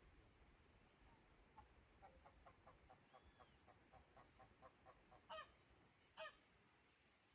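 Distant farm poultry calling: a quick run of short calls, about five a second, followed by two louder calls near the end.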